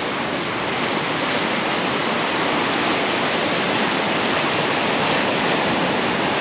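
Ocean surf breaking and washing on a beach: a steady, even rush with no breaks.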